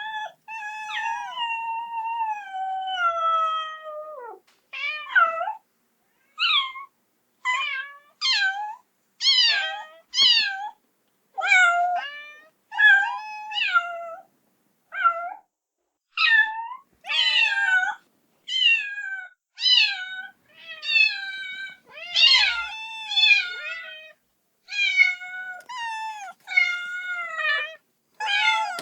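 Kitten meowing over and over in high-pitched cries, calling for its mother. It opens with one long falling meow, then keeps up short meows about one a second with brief silences between them.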